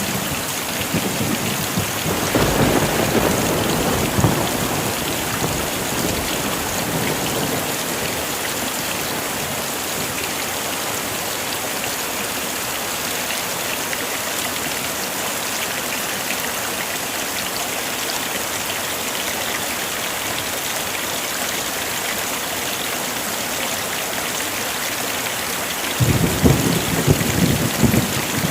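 Heavy rain falling steadily, with a rumble of thunder about two seconds in and another near the end.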